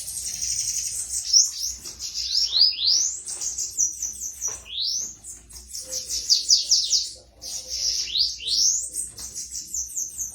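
Bananaquit (sibite) singing: high, thin phrases of rapidly repeated upward-sweeping notes, one phrase following another with barely a pause.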